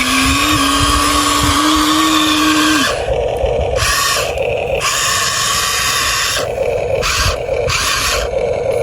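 Small electric motors of a radio-controlled toy excavator whirring. After about three seconds they start and stop in short bursts of roughly half a second, switching between a lower and a higher whir.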